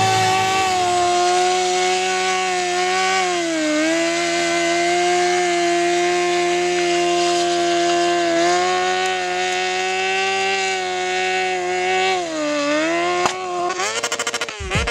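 Streetfighter sport motorcycle's engine held at high revs during a burnout, a steady high-pitched wail. The revs dip briefly about four seconds in and again about twelve seconds in, and near the end the sound breaks up into short, choppy blips of throttle.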